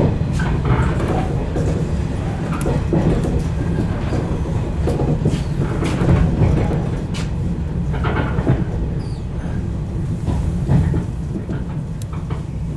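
115 series electric train running along the line: a steady low rumble with irregular clicks and knocks of the wheels over rail joints.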